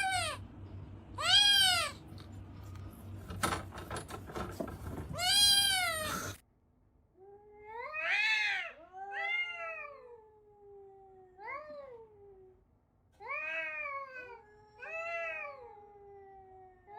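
Domestic cat meowing: three loud, arching meows, then, after an abrupt change about six seconds in, a run of quieter meows, several of them drawn out into long falling tails.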